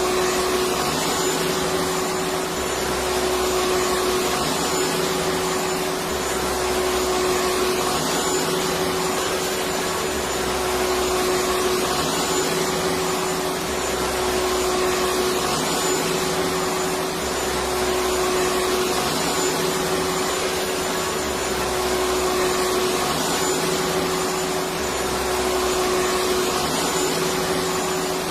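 Electric vacuum cleaner running steadily: a continuous whooshing whir with a steady hum. A faint low throb repeats about every two and a half seconds.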